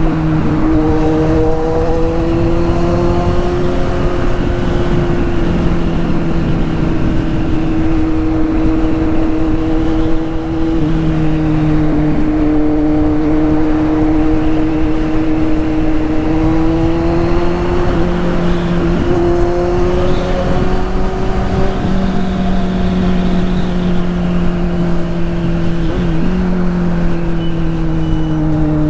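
Straight-piped Kawasaki Z800 inline-four engine running at steady high revs, its pitch drifting slowly up and down, with a brief dip in revs twice.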